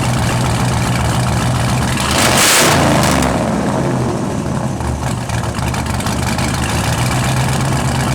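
Supercharged 6.0 LS V8 engine running at idle, revved once about two seconds in, climbing briefly and falling back to a steady idle.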